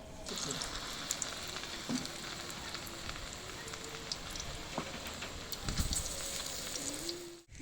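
Pakora batter frying in hot oil, with a steady sizzle and small crackles. It starts suddenly just after the start and cuts off just before the end.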